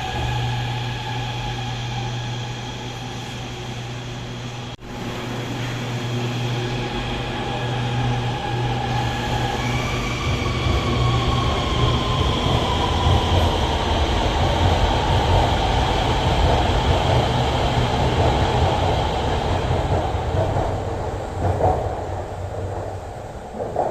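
Guangzhou Metro Line 21 train running through the station, with the steady whine of its electric traction equipment and wheel and rail rumble. A tone glides downward about ten seconds in. The rumble builds to its loudest in the middle and fades near the end as the train moves away.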